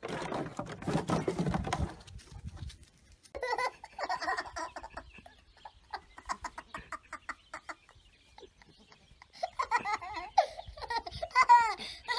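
A short rustling scuffle, then people laughing in short bursts, the laughter growing near the end.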